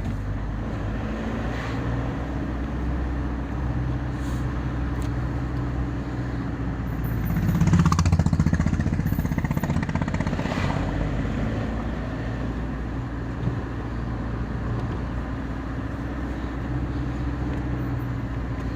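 Car engine and road noise heard from inside the cabin while driving, steady, with a louder swell about eight seconds in.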